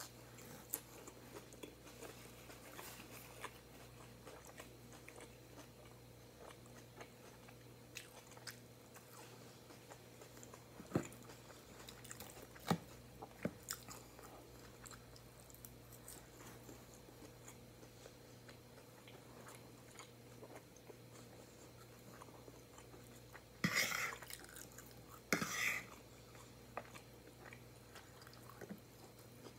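A person chewing and crunching mouthfuls of grilled chicken salad, with scattered light clicks of a fork against the plate and two louder short noises a second or so apart near the end. A faint steady hum runs underneath.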